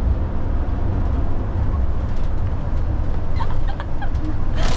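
Steady low rumble of road noise inside a moving car's cabin, with a short burst of noise near the end.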